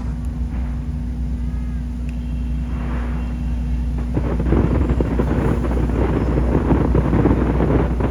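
Fireworks display heard as a steady low rumble, with dense crackling setting in about halfway through.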